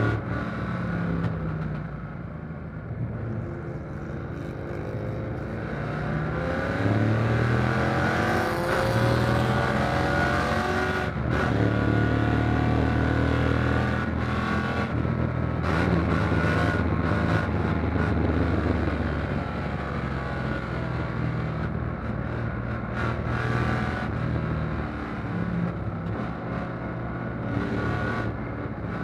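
Fuel-injected V8 of a 1957 Corvette race car at racing speed, heard from inside the open cockpit. The engine note climbs under acceleration, drops at shifts and as the throttle is lifted, then climbs again, with wind rush over the car.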